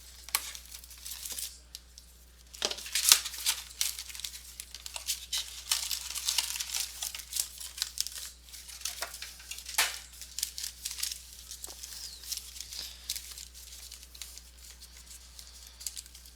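Plastic wrapping and foil card-pack wrappers on a box of baseball trading cards being torn open and crinkled by hand, with irregular crackles and sharp snaps throughout.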